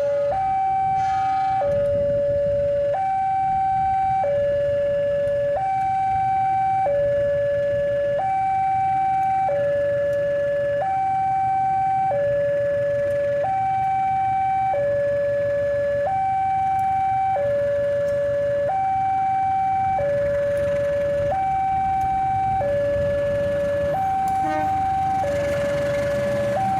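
Railway level-crossing warning alarm sounding its two-tone signal, alternating evenly between a higher and a lower tone, each held for just over a second, over a low rumble.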